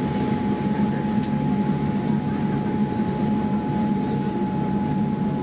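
Steady cabin noise inside a Boeing 787-8 taxiing after landing, engines at idle, with a constant low hum and a steady high tone. A faint click about a second in.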